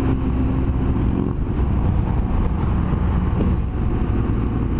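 BMW R1200GS Adventure's boxer-twin engine running steadily, a low even hum with a few constant tones.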